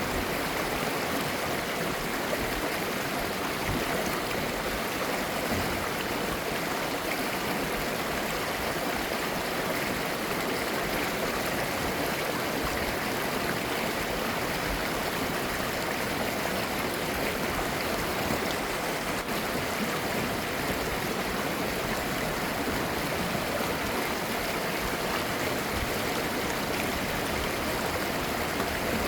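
Clear mountain stream flowing over rocks, a steady, even rush of water with babbling.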